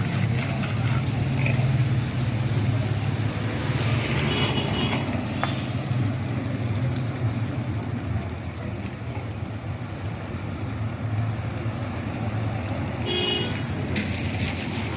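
Street traffic: vehicle engines running with a steady low rumble, and two short horn toots, about four seconds in and again near the end.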